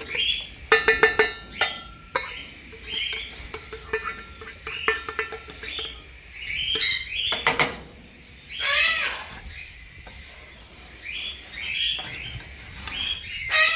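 Small parrots chirping over and over, with a louder falling squawk about two-thirds of the way in. Metal feeding dishes clink and rattle about a second in.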